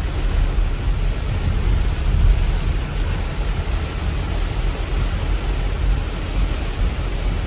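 Steady, loud, low rumble of rushing floodwater from a cloudburst flood, a river in spate.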